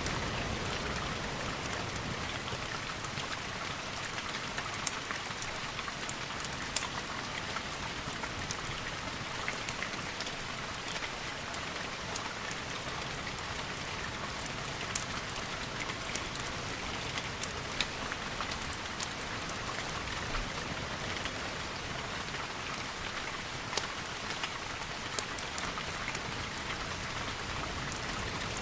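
Steady rain falling, a dense even hiss with scattered sharp ticks of individual drops.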